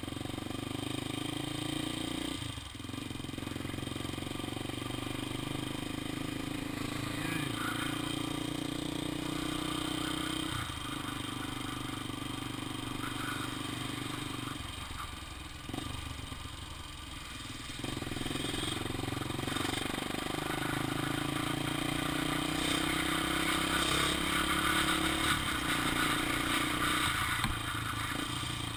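Honda XR 250 Tornado single-cylinder four-stroke engine running under way. The engine note drops off briefly a few times and then picks up again.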